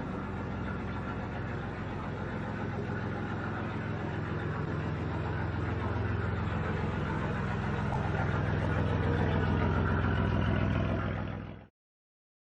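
Car engine running steadily at idle, growing slightly louder, then cutting off suddenly about a second before the end.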